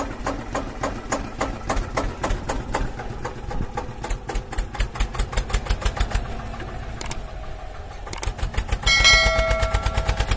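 Mini tractor engine chugging in even beats, at first about four a second, with the beat quickening later. About nine seconds in, a steady tone with several pitches sounds over it.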